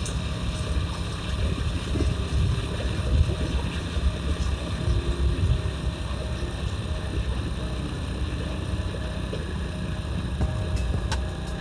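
Motorcycle running on the move, with wind buffeting the microphone in a steady low rumble.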